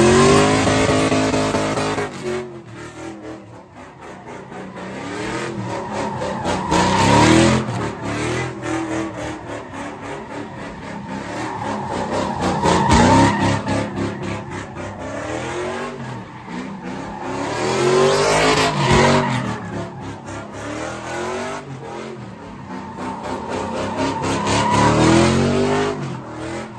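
Car engine revving hard with tyres squealing, the sound swelling and fading about every six seconds as the car circles past, as in donuts at a sideshow.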